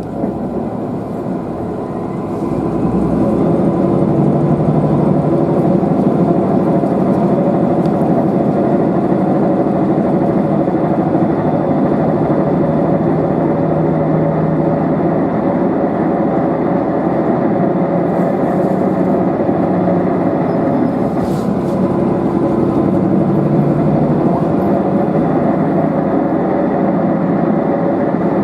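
Diesel railcar running, engine and wheel noise heard from inside the car; it grows louder about three seconds in as the engine works harder, then runs on steadily.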